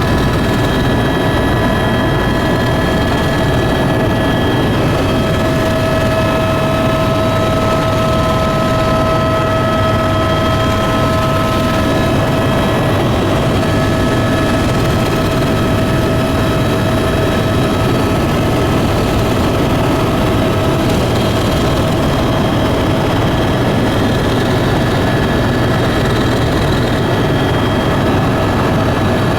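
Steady, loud drone of a tour aircraft's engines and propellers in flight, with several steady tones over the noise.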